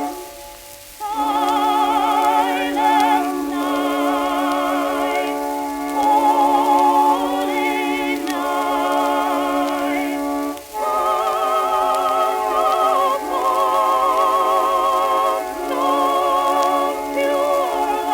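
Instrumental passage from an early 1900s phonograph record: a melody with strong vibrato over a held low note. The low note drops out briefly twice, about a second in and again past the middle.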